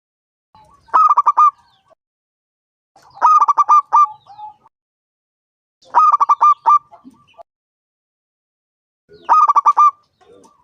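Zebra dove (perkutut) cooing: four bouts of quick staccato coos, each a rapid run of short notes, repeated about every three seconds.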